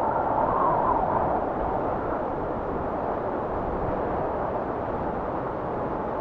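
Blizzard wind blowing steadily, swelling a little about a second in.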